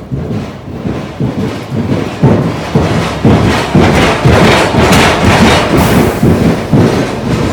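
A bus crossing a bridge. The deck rumbles and bangs loudly under it in a rapid run of heavy thumps, building about two seconds in and loudest through the middle.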